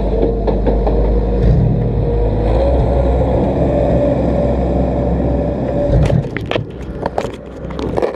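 Demolition derby car's engine running steadily, heard close up from a camera on its hood. About six seconds in the sound drops quieter and a run of clicks and knocks follows as the camera is handled.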